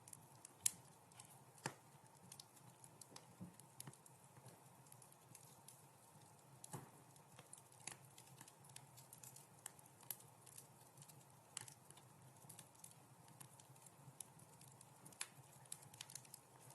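Wood fire crackling in a fireplace: irregular sharp pops and snaps over a faint steady low hiss, with the loudest pop just under a second in.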